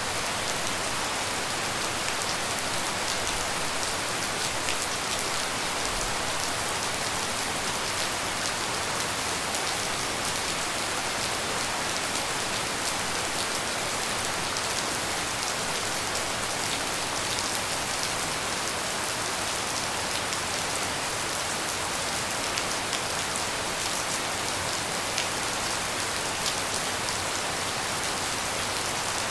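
Steady tropical rain falling, an even hiss dense with small drop ticks.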